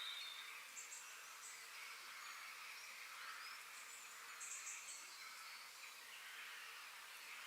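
Faint forest ambience: a steady hiss, with a few short, high bird chirps about a second in and again about four and a half seconds in.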